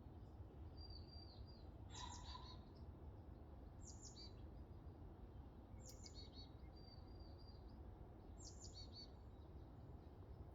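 A songbird repeating a short high call phrase about every two seconds: a few quick notes dropping in pitch, sometimes followed by a brief held whistle. Faint, over a steady low background rumble.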